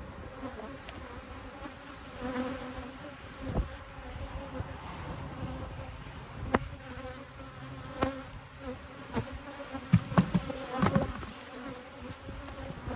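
Honeybees buzzing around an open hive, a steady drone, with a few sharp knocks in the second half.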